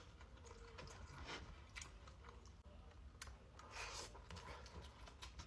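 Faint close-up chewing with scattered mouth clicks, a few spaced irregularly through the stretch.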